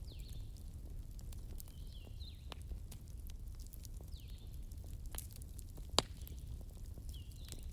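Wood campfire crackling: a steady low rumble of flames with scattered small pops and snaps, one sharper pop about six seconds in. Faint short high calls recur every couple of seconds.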